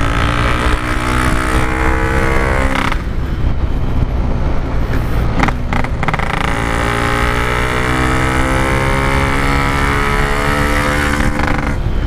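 Yamaha RX-King's single-cylinder two-stroke engine running under way, its exhaust note fading about three seconds in and coming back strongly about three seconds later, over low wind rumble on the microphone.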